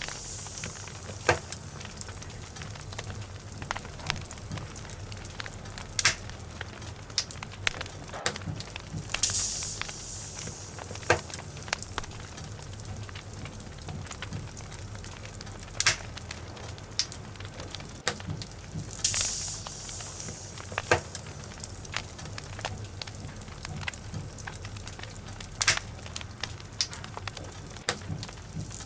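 Logs burning in a fireplace, crackling with scattered sharp pops over a low steady rumble. Hissing surges come roughly every ten seconds.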